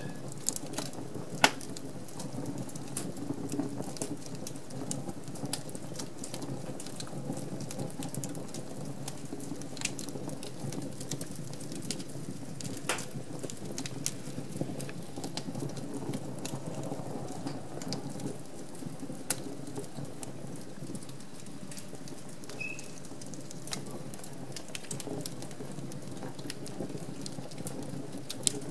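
Wood fire burning in a fireplace: a steady low rush of flames with irregular sharp crackles and pops from the burning logs, one louder pop about a second and a half in and another near the end.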